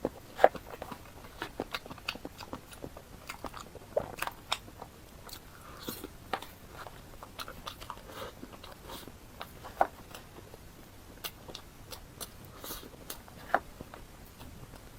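Close-miked eating: wet chewing with irregular crunches and mouth clicks, a few louder bites standing out.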